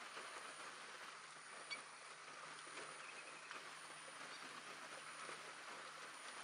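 Faint, steady hiss of rain falling, with a single small click a little under two seconds in.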